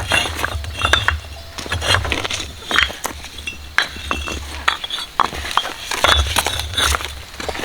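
Irregular clinks and knocks of hard objects being handled, over a low rumble that comes and goes.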